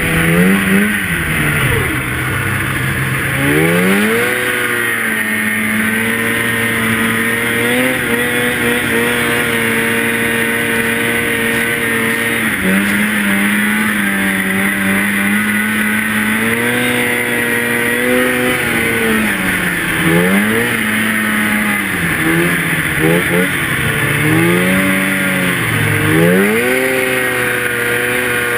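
Two-stroke snowmobile engine running at high revs. Its pitch drops and climbs back several times as the throttle is let off and opened again.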